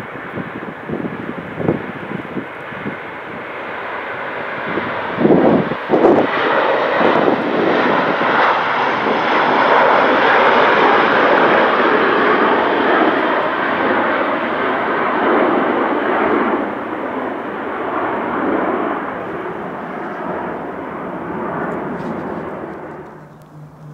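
An aircraft flying over: engine noise swells to a peak about halfway through, then fades and drops away sharply near the end. A couple of loud knocks come about five to six seconds in.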